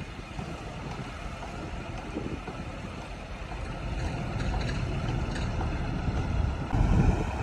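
Heavy diesel earthmoving machinery running: a low engine rumble that grows louder about four seconds in, with a brief louder surge near the end.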